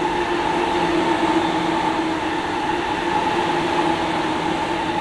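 Sobu Rapid Line electric commuter train passing through the station at speed without stopping: a loud, steady rush of wheels on rail with two steady tones, one low and one higher, running under it.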